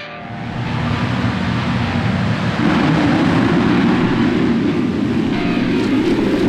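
A pack of motocross bikes running together in a dense roar that builds over the first couple of seconds and then holds steady.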